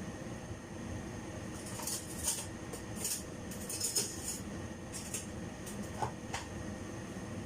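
Cooking utensil scraping and clinking against a pan in a run of short strokes, as when stir-frying rice noodles, over a steady low hum.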